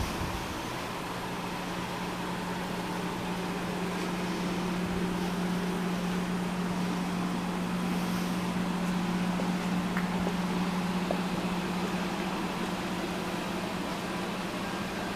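Steady low machine hum over an even background noise.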